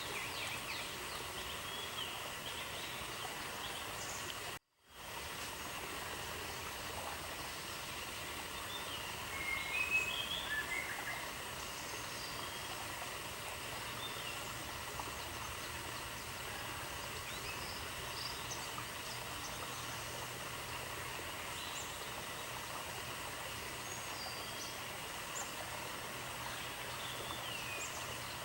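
Outdoor nature ambience: a steady hiss with scattered short bird chirps, a louder run of chirps about ten seconds in. The sound cuts out completely for a moment near five seconds, an edit or loop point.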